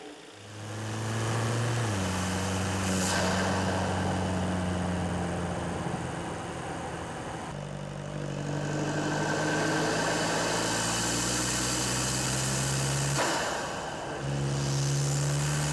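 Volkswagen Mk8 Golf GTD's 2.0 TDI four-cylinder diesel with a Ramair induction kit, running steadily at first. It is then heard from inside the cabin pulling under load. Near the end the sound dips briefly, then picks up again at a higher pitch.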